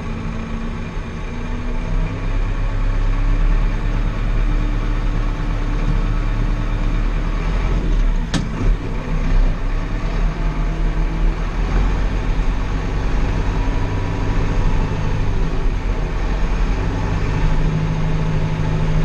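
Small four-wheel-drive Massey Ferguson tractor's diesel engine running steadily while the tractor drives slowly, getting a little louder about two seconds in. A single sharp click a little under halfway through.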